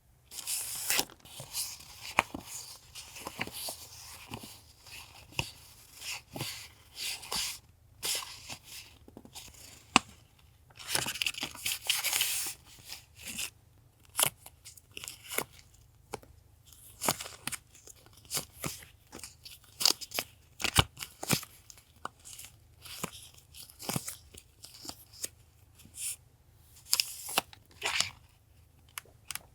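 Paper goods and sticker packets from a stationery random box being handled and opened: rustling and tearing, with many small taps and clicks.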